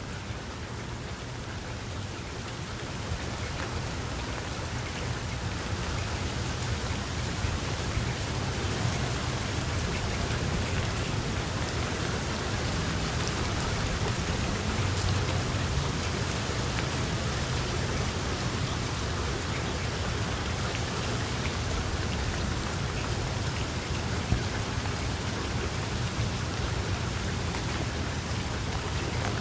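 Steady rain falling, with scattered drops ticking on a surface. It grows louder over the first few seconds, then stays even.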